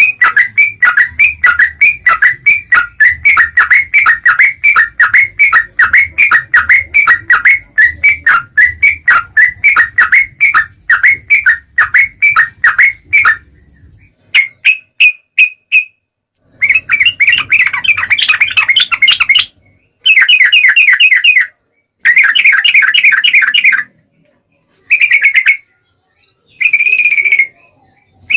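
Yellow-vented bulbul (trucukan) calling: a rapid, even series of sharp chirps, several a second, for about the first half. It then breaks into short bursts of dense chattering with abrupt silences between them.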